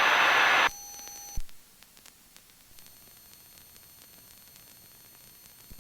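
Aircraft radio and intercom audio: a burst of static hiss cuts off, followed by a short steady beep of under a second and a click, then a faint quiet line, as the radio is switched to a new frequency.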